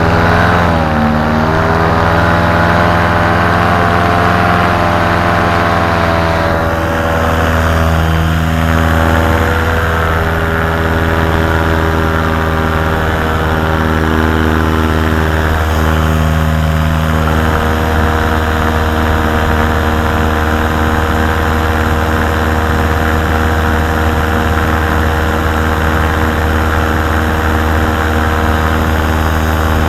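Paramotor engine and propeller running with a steady drone; its pitch shifts in the first few seconds, then holds.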